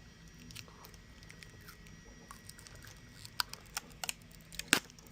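Plastic parts of a Hart 20-volt cordless stick vacuum being handled, giving a run of light clicks. The clicks grow louder in the second half, with the sharpest one near the end.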